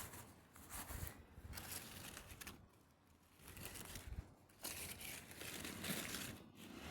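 Rustling and crinkling noises in irregular spells, the longest and loudest in the second half.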